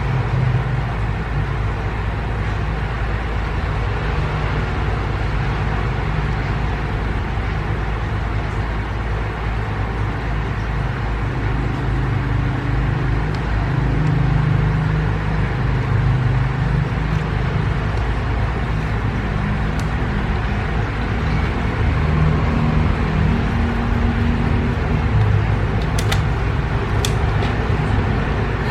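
Steady low rumble of background noise, with a few faint small clicks near the end.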